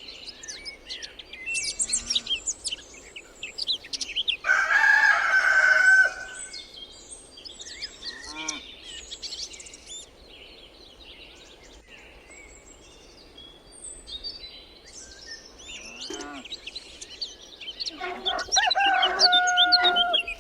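A rooster crowing twice, once about four seconds in and again near the end, each a loud held call lasting about two seconds, over small songbirds chirping throughout.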